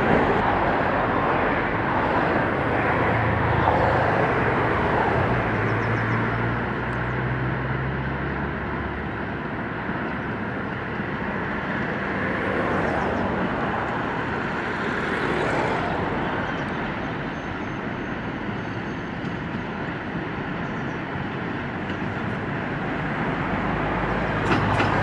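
Train running: a steady rumble and rail noise, with a low engine hum during the first several seconds that then fades.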